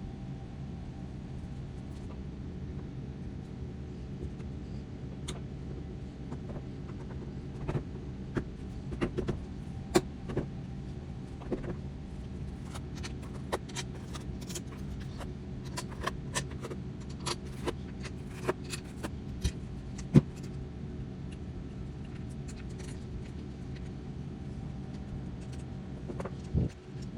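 Irregular metallic clicks and clinks of tools and parts being handled, clustered through the middle, over a steady low hum.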